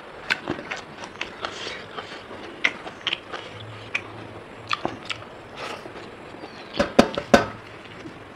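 A person chewing a mouthful of rice and pork close to the microphone, with irregular wet smacking and crunching clicks; a few louder, sharper clicks come together about seven seconds in.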